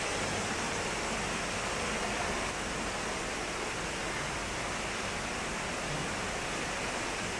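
Heavy tropical rain pouring down onto a paved street: a steady, even downpour.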